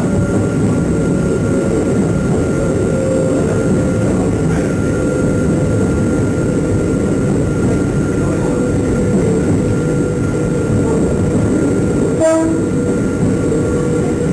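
Hakone Tozan Railway electric train running, a steady rumble with a steady whine over it. About twelve seconds in comes one brief pitched sound, short and sharp.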